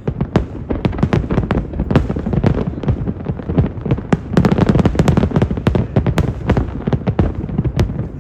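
Fireworks display: a rapid, dense run of bangs and crackling bursts that is thickest about halfway through.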